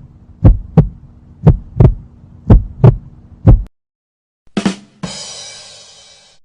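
Heartbeat sound effect: paired low thumps, about one beat a second, that stop a little past halfway. A different effect follows near the end: a short hit, then a sound that fades out over about a second and a half.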